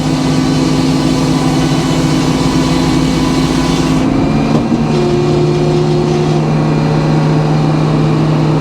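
A sawmill's engine running steadily, with a slight change in its tone about four seconds in.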